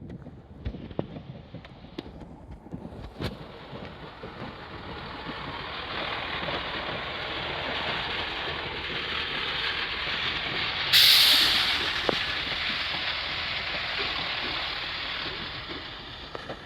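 A large vehicle's running noise builds up as it draws near. About eleven seconds in, its air brakes give a sudden loud hiss of released air, and then the noise fades away.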